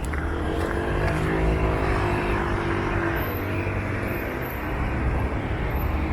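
A road vehicle passing close by on a city street. Its engine hum drops a little in pitch as it goes past, over a steady low rumble and tyre noise.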